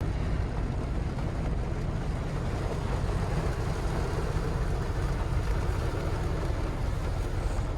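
Steady heavy rain falling, heard from inside a parked car, with a constant low rumble underneath.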